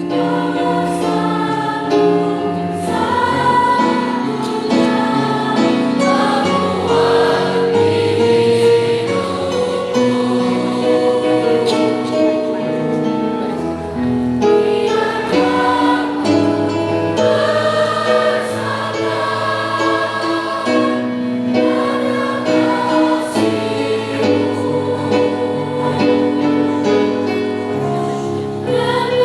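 School choir singing a sacred song in harmony, with sustained notes changing every second or so.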